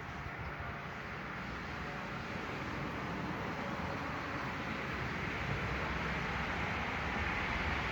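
Outdoor background noise from a passing vehicle, a steady rushing hiss and rumble that grows gradually louder.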